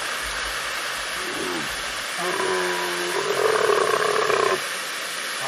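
An animal's drawn-out call, starting about two seconds in and lasting a little over two seconds before it stops abruptly, over a steady hiss.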